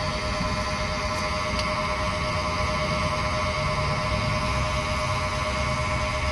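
Automotive smoke machine's air pump running steadily, a constant hum with a fixed pitch, pushing smoke into the intake manifold during a leak test.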